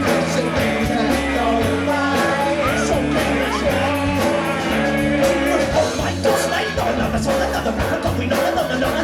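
Live rock band playing loudly, with held bass notes and regular drum hits.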